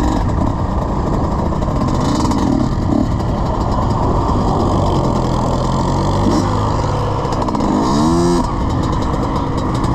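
Dirt bike engine running under way, with the revs rising and falling a couple of times, about two seconds in and again near eight seconds, over steady rushing noise.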